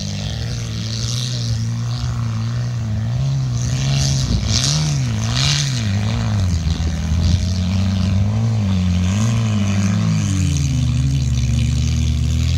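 Engines of old scrap cars racing on a dirt field course, revving hard with the pitch rising and falling again and again. The sound grows gradually louder as the cars come closer.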